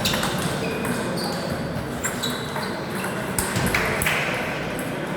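Table tennis ball being played: a series of sharp clicks and short high pings as the ball strikes rackets and the table.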